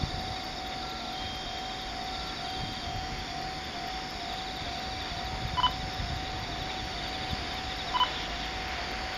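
Freight train running along the line, a steady rumbling noise, with an evenly pulsing alarm tone sounding throughout. Two short high chirps cut in, one just past the middle and one near the end.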